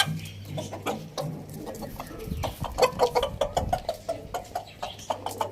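Chickens clucking softly while pecking at food, with many quick, sharp pecking taps between the short clucks.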